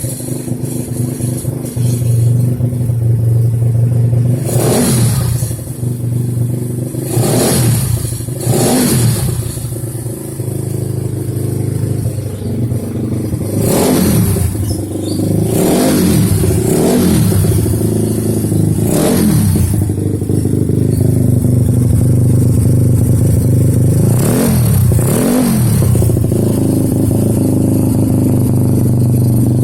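Yamaha Mio Soul scooter's single-cylinder four-stroke engine, tuned up to 150cc, idling steadily and revved in about nine short throttle blips, each a quick rise and fall in pitch. The blips come through the first two-thirds, then it settles back to a steady idle.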